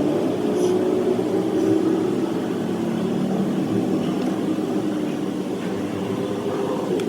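Machinery running steadily, an even droning hum with no change in speed.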